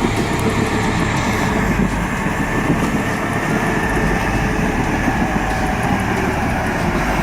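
Heavy machinery running: a loud, steady engine rumble mixed with dense, rapid rattling and clanking.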